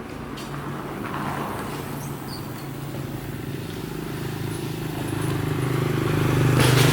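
Honda CB750 motorcycle engine running at a steady pace and growing steadily louder, as if the bike is drawing closer, loudest near the end.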